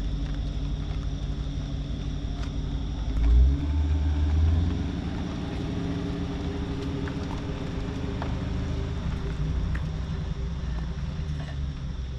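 Dodge Redeye Hellcat's supercharged V8 engine running with a steady low drone. It swells louder for a second or so about three seconds in, then settles back to an even run.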